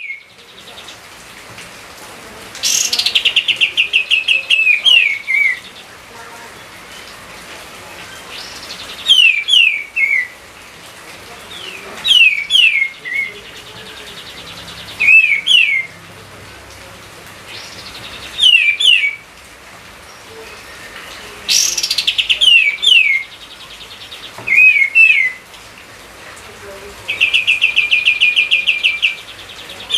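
Pied triller (kapas tembak) singing: phrases about every three seconds, each a rapid trill and a few quick, downward-sliding whistled notes. Faint steady hiss underneath.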